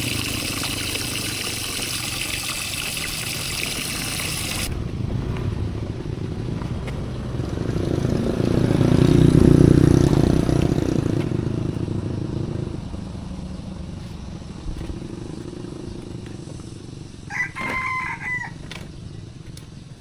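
A low rumble swells up and fades over several seconds, loudest around the middle, after a steady hiss in the first few seconds. Near the end a rooster crows once, about a second long.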